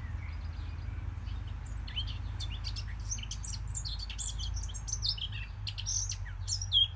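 Small birds chirping: a busy run of quick, short high-pitched chirps and twitters, thickening about two seconds in, over a steady low hum.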